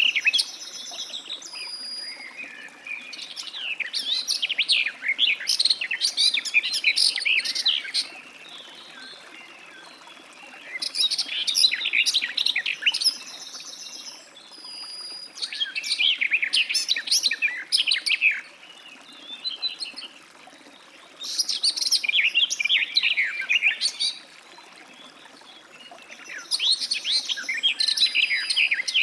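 Garden warbler singing: about five long, fast warbling phrases of three to five seconds each, with gaps of a few seconds between them.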